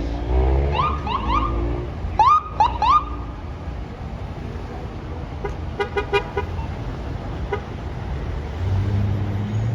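Emergency vehicle siren giving short rising whoop chirps in two quick groups, followed by a few brief horn blasts, over low engine and traffic rumble that grows louder near the end.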